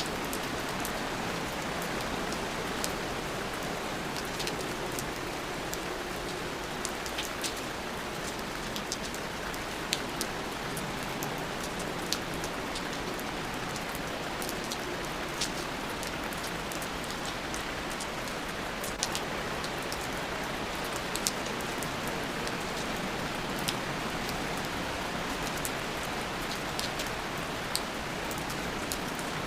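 Steady rain falling on a surface, an even hiss with scattered sharp ticks of single drops hitting close by.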